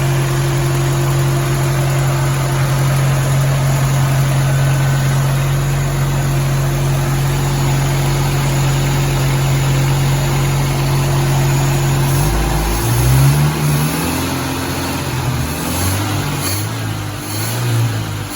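1981 AMC Eagle SX/4's engine idling steadily, then revved up and down several times from about two-thirds of the way in.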